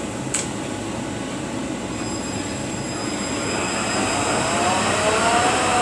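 Rebuilt Eaton Fuller RTLO-18913A truck transmission running on a dyno test stand: a steady mechanical drone with one sharp click under a second in, then a gear whine that rises in pitch over the last couple of seconds.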